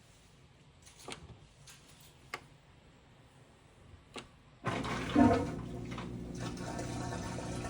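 A few sharp clicks from the washing machine's controls, then about two-thirds of the way in the drain pump starts abruptly and water rushes out steadily, with a thump just after it starts: the drain system is working.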